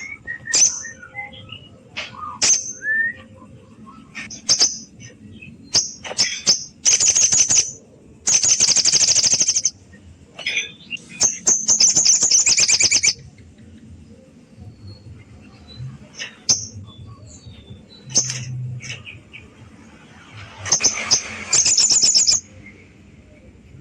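A sogon sunbird singing a challenge song: sharp, very high chirps broken up by rapid, buzzy trills a second or two long, phrase after phrase with short pauses between.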